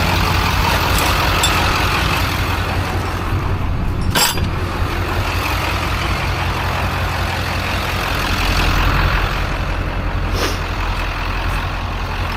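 A vehicle engine running steadily with a low rumble, with a sharp click about four seconds in and another near the end.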